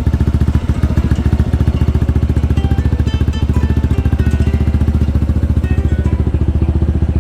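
Motorcycle engine idling with an even, rapid throb of about ten pulses a second.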